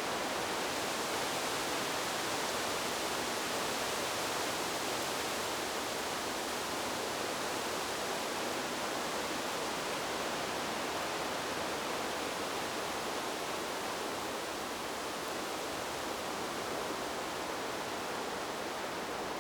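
Wind rushing steadily through trees: an even, unbroken hiss with no distinct gusts.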